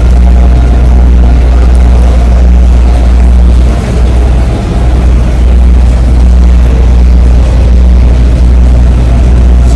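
Boat engine running steadily underway, a loud low hum that dips briefly about four seconds in.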